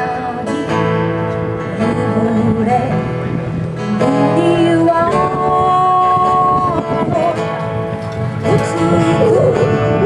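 Acoustic bluegrass band playing live: strummed acoustic guitar under a melody line with long held notes.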